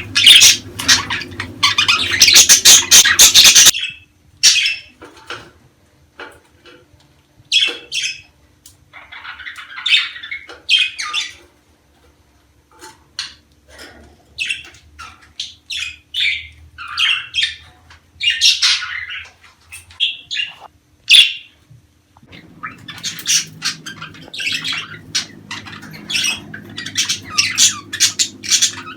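Budgerigars chattering: a flock's dense squawks, chirps and warbles. Around four seconds in they thin to scattered calls, and near 22 s they turn dense again. This is budgie chatter of the kind played to encourage budgies to breed.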